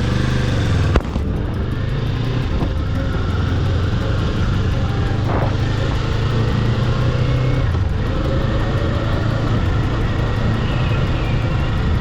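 Kawasaki Eliminator 500's parallel-twin engine running steadily while riding, under a constant rushing noise. A single sharp click about a second in.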